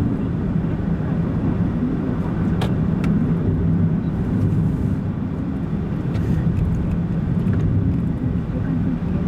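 Car driving at a steady speed, heard from inside the cabin: a continuous low engine and road-noise hum. Two brief clicks come about two and a half and three seconds in.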